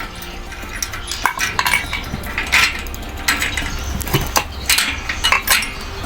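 Irregular light metallic clinks and knocks, a dozen or so, of metal parts or tools being handled, over a steady low hum.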